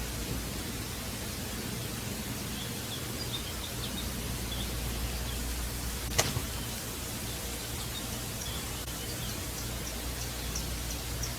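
Steady background hiss of outdoor ambience with faint, scattered high chirps and a single sharp click about six seconds in.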